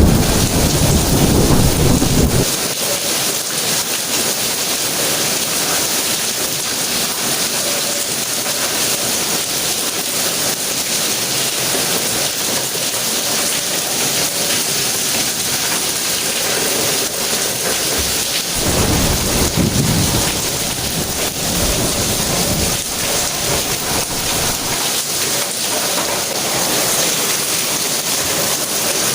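Steady rain falling, with rolling thunder. One rumble dies away about two seconds in, and another rolls in for a few seconds about two-thirds of the way through.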